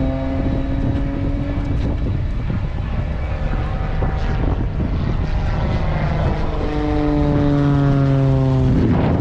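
Stunt plane's propeller engine droning as it flies past, its pitch falling slowly. It is heard once near the start and again, louder, in the second half, over a steady low rumble.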